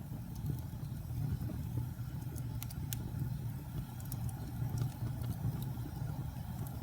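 Campfire burning: a steady low rumble of flames with sharp crackles and pops of burning wood scattered through, two of the strongest close together near the middle.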